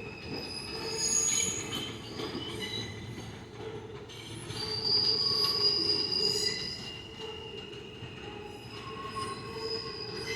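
New York City Subway train's steel wheels squealing against the rails as it rolls by, several high-pitched squeals over the rumble of the wheels, loudest about halfway through.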